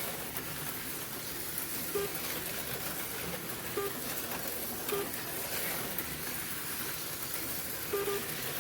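HO-scale slot cars running on the track, a steady whir and rattle from their small electric motors and pickups, with short beeps every one to three seconds.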